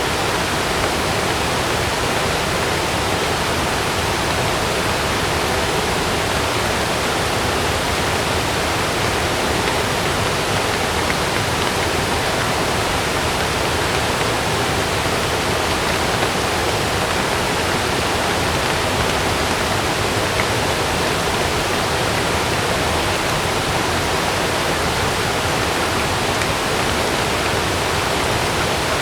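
Heavy rain falling steadily: a dense, even hiss that holds at the same level throughout, with no thunderclaps.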